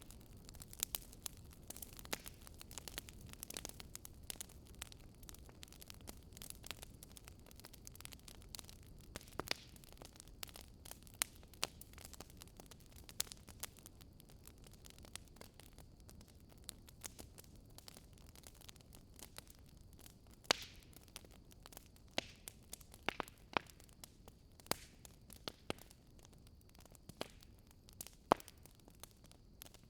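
Fire crackling: irregular sharp pops, a few much louder than the rest, over a soft low rumble.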